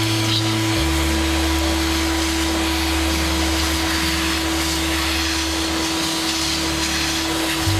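CNC router running a roughing cut in wood: steady spindle and cutting noise with a constant whine, while the lower hum of the machine's motors changes pitch about a second in and again near the end as the tool moves.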